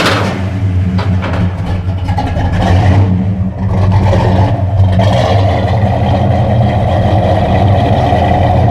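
1970 Pontiac GTO Judge's V8 running through a new custom dual exhaust, a steady deep exhaust note that grows fuller about five seconds in.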